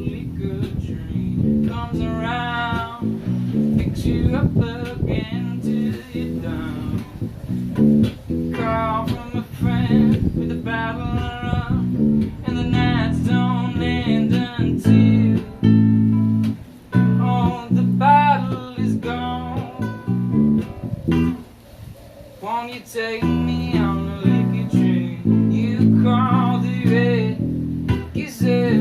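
Music: a song carried by guitar, with strummed and plucked acoustic guitar and a wavering melody line over it.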